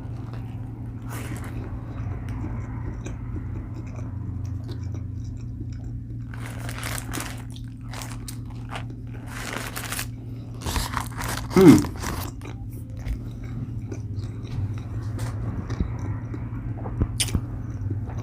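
Close-up crunching and chewing of a fried Nashville hot chicken sandwich: crackly bites and wet mouth noises come and go over a steady low hum. About twelve seconds in comes one short, falling 'mm' from the eater.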